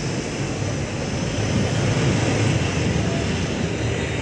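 Steady low rumble and hum of a large airport terminal hall: air handling and general background noise, with no distinct events.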